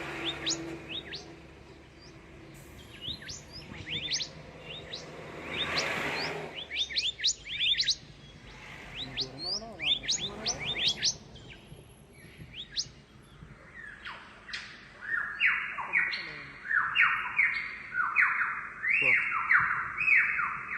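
Forest birds calling: many quick, high chirps, then from about two-thirds through a repeated series of sliding whistled notes. A low hum fades out around six seconds in.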